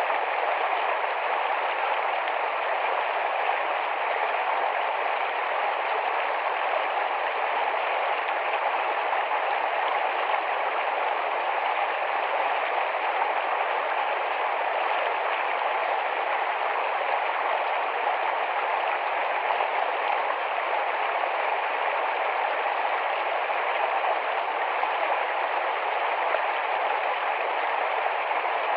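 A small, fast-flowing shallow forest stream, its water rushing and babbling steadily.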